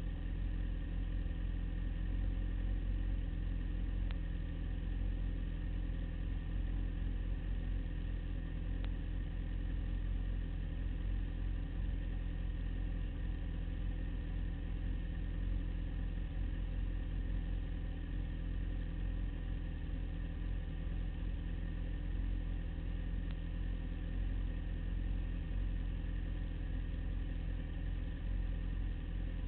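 Sport motorcycle engine idling steadily with the bike standing still, heard close up from a camera mounted on the bike.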